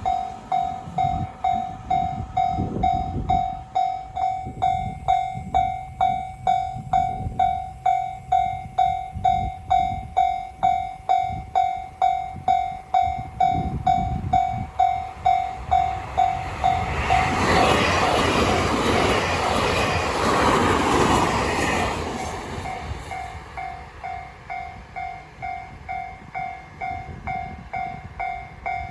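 Railway level-crossing alarm bell ringing steadily about twice a second. Midway a train passes with a loud rush of noise that drowns the bell for several seconds, after which the bell is heard again, fainter.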